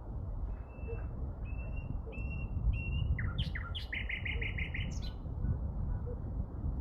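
A songbird singing one phrase: four short whistled notes, then quick falling slurred notes and a fast trill, ending on a high note. A steady low rumble of background noise runs underneath.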